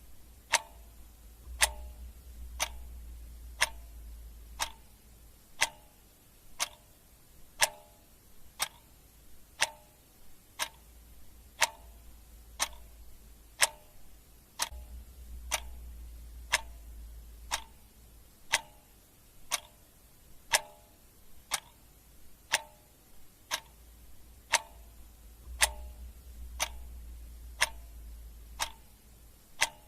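Clock ticking steadily, about two ticks a second, alternating tick and tock. A low hum swells in and out underneath three times.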